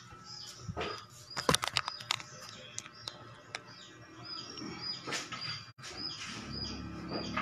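A small bird chirping over and over in short high chirps, with a quick cluster of sharp clicks about one and a half seconds in.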